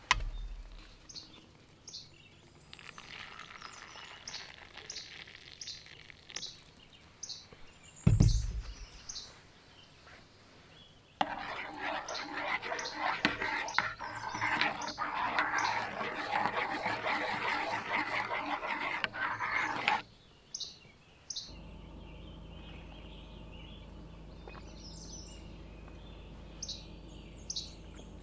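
A small bird chirping repeatedly, short high chirps about two a second, coming and going. About eight seconds in there is a single loud low thump, then a loud steady rushing hiss for about nine seconds, followed by a steady low hum.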